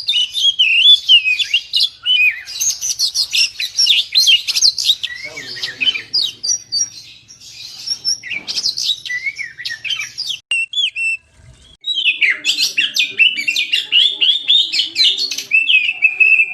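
Oriental magpie-robin (kacer) singing a rapid, varied song of sweeping whistles and chattering notes, with a brief pause about eleven seconds in.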